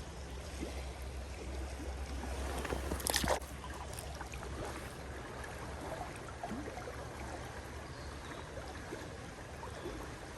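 Creek water running steadily, with rain ticking on and around it, and a short louder rush of noise about three seconds in.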